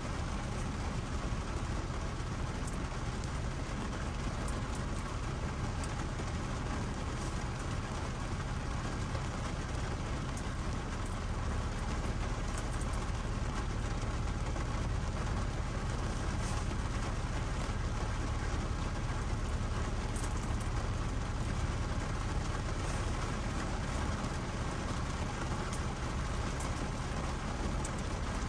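Steady rain falling on a car's windshield and roof, heard from inside the cabin, with scattered drop ticks over a low steady rumble from the car.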